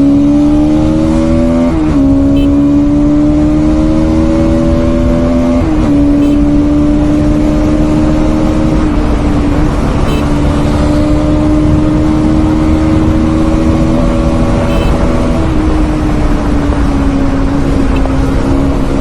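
Bajaj Pulsar NS200's single-cylinder engine under hard acceleration on a highway. The pitch climbs and drops sharply at two upshifts in the first six seconds, then holds at a steady high-speed note that eases slightly about three-quarters of the way in, with wind rush underneath.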